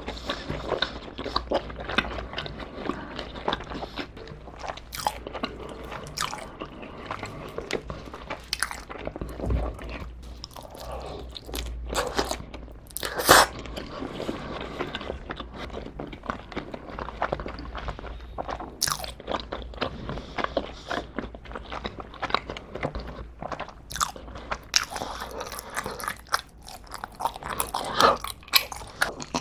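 Close-miked chewing and biting of pizza crust dipped in garlic sauce: a run of irregular crunches and small mouth clicks, with one louder crunch about 13 seconds in.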